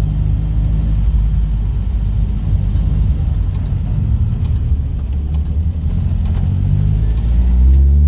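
Classic car's engine and road rumble heard from inside the moving car: a steady low drone of engine harmonics that swells near the end as the car pulls harder.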